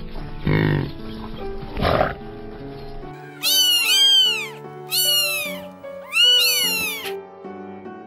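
Two low calls from African buffalo, then a domestic cat meowing three times, each meow rising and falling in pitch, over background music.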